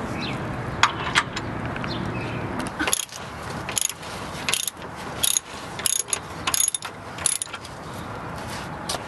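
A wrench working the oil drain plug loose, clicking in short repeated strokes about every two-thirds of a second. Beneath it a steady background noise runs for the first three seconds, then drops away.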